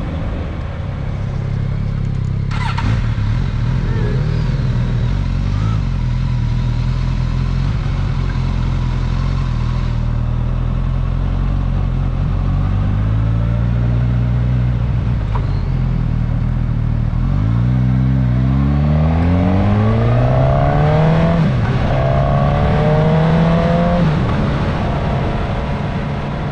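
Suzuki GSX-S1000S Katana's inline-four motorcycle engine heard on board, running at steady revs, then accelerating from about two-thirds of the way in, revs rising and dropping back at each upshift, twice or three times, before settling near the end.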